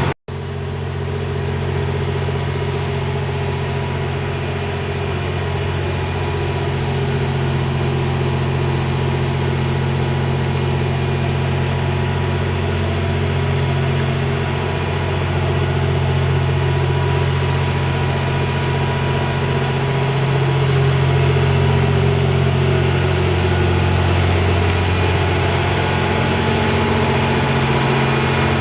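A train's diesel engines idling steadily at a standstill, a continuous low hum: the Twilight Express Mizukaze, whose 87 series diesel generators run while it waits at the station.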